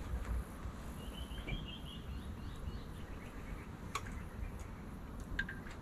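Quiet outdoor background with a short run of small bird chirps about a second in, and a couple of sharp clicks from test probes and cable plugs being handled later on.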